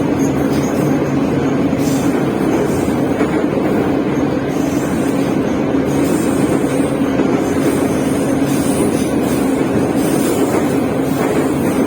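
Moscow Metro train running at speed through a tunnel, heard inside the carriage: a steady rumble and rush of wheels on rails with a constant low hum.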